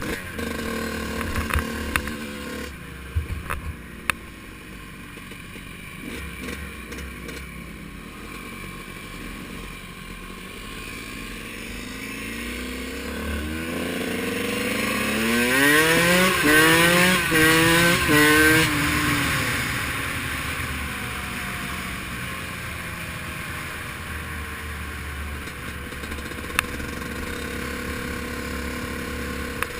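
Dirt bike engine running, with a few sharp knocks in the first few seconds; about halfway through it accelerates hard, its pitch climbing in several steps as it shifts up through the gears, at its loudest for a few seconds, then eases back to a steady run.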